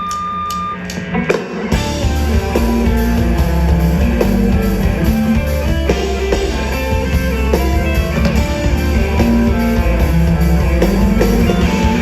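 Live rock band playing an instrumental passage with electric guitars. About two seconds in, drums and bass guitar come in and the full band plays on at full volume.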